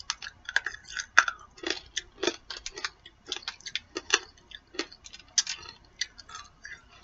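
Close-up chewing of a sticky, chewy candy: irregular wet mouth clicks and smacks, a few each second.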